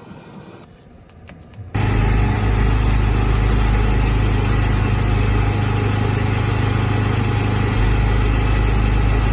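El Diablo carpet-cleaning machine switched on after repair: about 2 seconds in it starts abruptly and runs loud and steady, with a deep hum under an even rushing noise.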